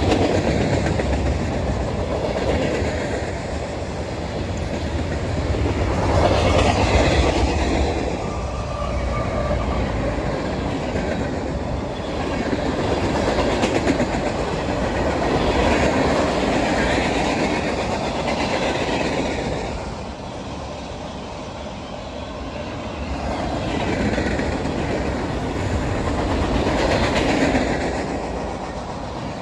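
A train rolling past, its cars going by continuously, the sound swelling and easing every few seconds.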